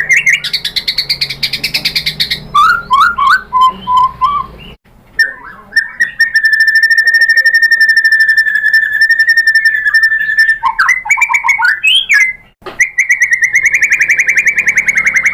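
White-rumped shama singing a string of whistled notes and fast trills, with a long rapid trill held at one pitch for about five seconds in the middle. The song breaks off briefly twice.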